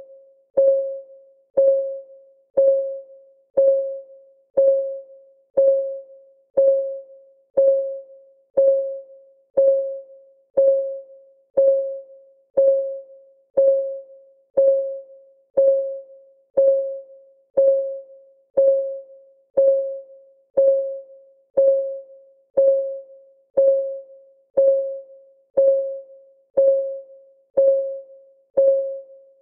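Clock ticking sound of a countdown timer: one tick per second, each a short pitched tick that rings briefly at the same note and dies away, steady and even.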